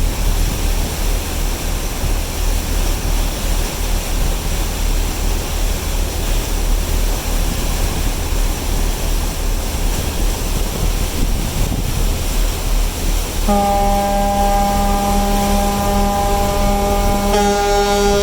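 Steady rushing rumble, then about three-quarters of the way in a ferry's horn starts a long, steady blast as a farewell salute. Near the end a second horn joins it.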